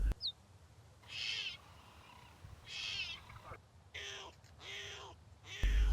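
Cheetah cubs chirping: four short, bird-like calls spaced about a second apart.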